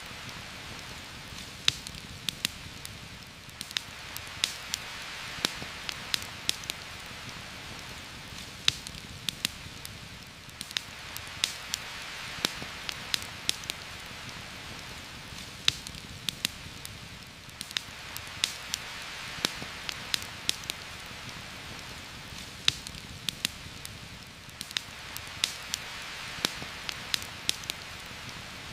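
Heavy rain falling steadily through forest, its hiss swelling and easing about every seven seconds, with frequent sharp pops and crackles from a campfire.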